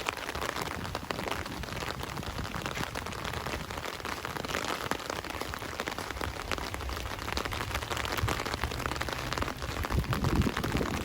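Steady rain falling, with many separate drops striking close by. A low rumble swells about ten seconds in.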